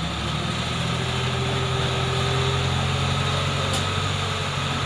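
A heavy engine running steadily at constant speed: a low, even hum with a fainter higher whine over it.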